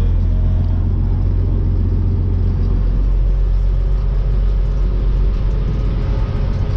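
Dump truck's diesel engine and drivetrain running under way, a steady low rumble.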